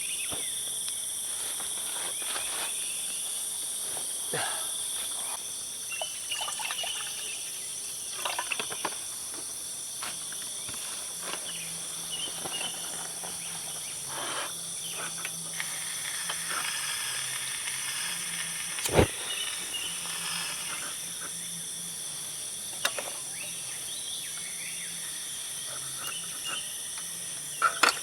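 A dense chorus of crickets and other insects trilling steadily. Scattered soft clicks and knocks come through it, with one sharp click about two-thirds of the way through.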